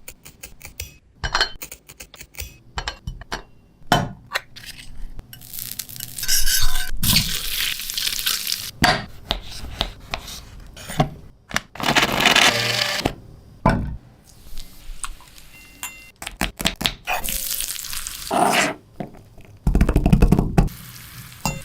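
Small cooking utensils and dishes clinking, tapping and scraping, with several hissing stretches of a second or two.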